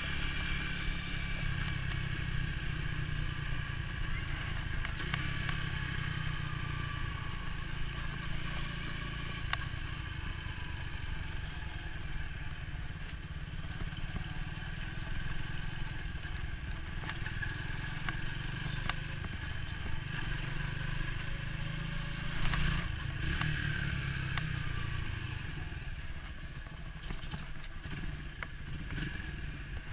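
Orcal Astor 125 motorcycle engine running steadily, with a faint whine above the engine note. A short louder knock comes about 22 seconds in, and the sound eases off slightly near the end.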